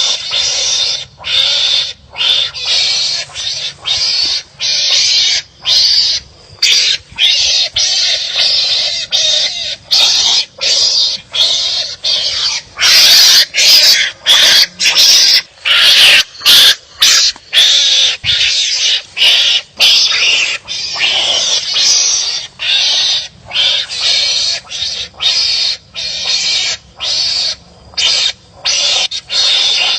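Harsh, raspy animal calls in rapid series, one about every second, from animals squabbling at each other; louder for a few seconds near the middle.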